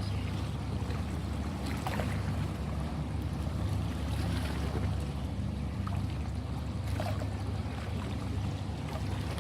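Sea water washing and lapping steadily, with a few small splashes.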